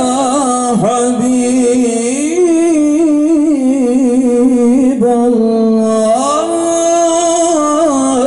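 A solo voice singing a long ornamented melody, with held notes, fast wavering turns and slides between pitches.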